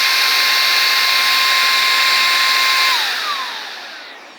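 Saker 3-in-1 cordless handheld vacuum running on its high speed setting, used as a blower: a steady high-pitched motor whine. About three seconds in it is switched off and the motor winds down, the whine falling in pitch as it fades.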